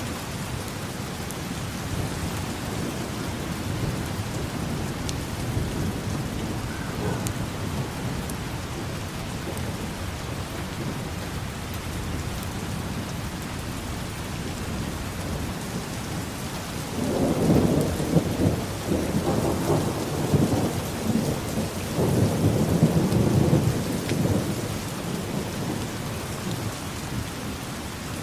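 Steady rain falling, with a louder, low rolling rumble of thunder that swells a little past the middle and lasts several seconds before fading back into the rain.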